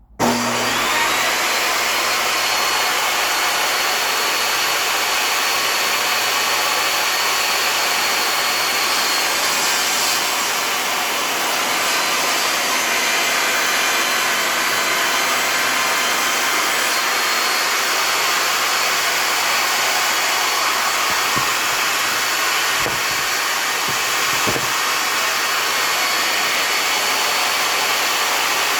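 Skil table saw switched on, its motor spinning up with a rising whine in the first moment, then running at full speed with a steady, loud high-pitched whine.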